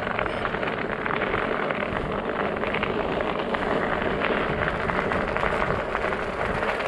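Studded fat-bike tires rolling over snow and ice, a steady gritty crackle of many small clicks.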